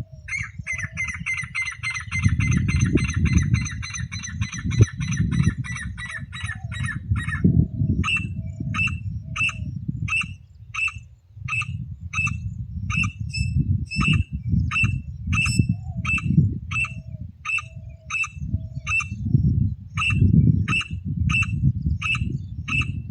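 Partridge (teetar) calling: a fast rattling run of notes for about seven seconds, then single sharp notes repeated about twice a second. A loud low rumble runs underneath.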